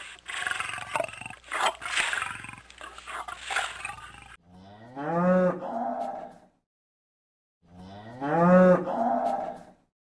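Rough, noisy animal roaring and growling, then an abrupt change about four seconds in to two long cow moos. Each moo rises in pitch and then holds, with a second and a half of silence between them.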